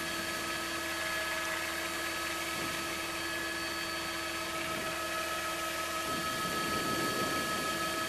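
Helicopter running steadily, heard from inside the cabin: a constant turbine whine of several fixed tones over an even rushing hiss.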